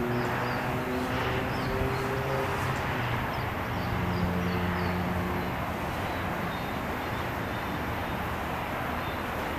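Steady rumble of an approaching SEPTA Silverliner V electric commuter train, still some way off down the track, with a few faint high chirps in the first few seconds.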